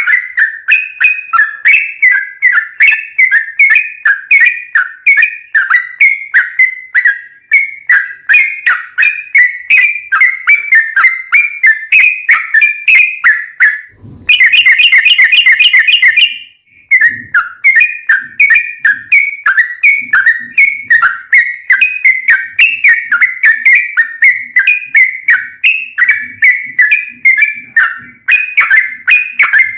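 Yellow-vented bulbul (trucukan) singing: short bubbly whistled phrases repeated about two or three times a second. About fourteen seconds in they give way to a very fast, dense trill lasting about two seconds, the long 'ropel' that bird keepers play to provoke a caged bird into answering.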